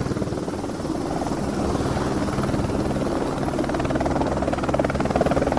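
Helicopter rotor sound effect: blades chopping rapidly and evenly over a steady low engine hum.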